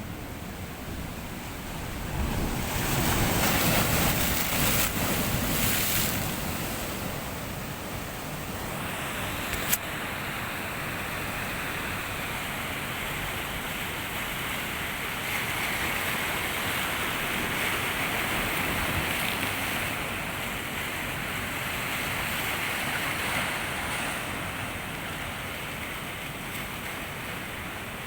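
Sea waves washing onto the shore: a wave surges loudest a few seconds in, then a steady rushing wash follows. A single sharp click sounds about ten seconds in.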